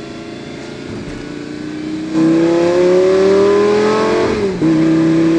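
Lamborghini Gallardo's 5-litre V10 accelerating hard: the engine note jumps loud about two seconds in and climbs in pitch, drops sharply with an upshift a little after four seconds, then pulls on steadily in the next gear.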